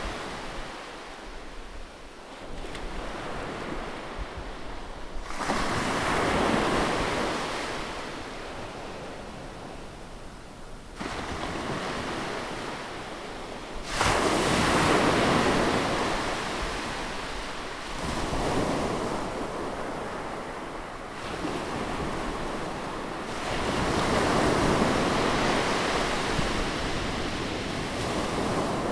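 Sea waves breaking on a beach, each wave surging in and washing back as a rush of surf every three to five seconds; the loudest wave breaks sharply about halfway through.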